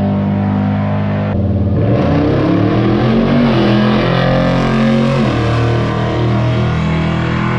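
Drag car engine under hard acceleration: its pitch climbs for about four seconds, drops sharply at a gear change, then runs on steadily.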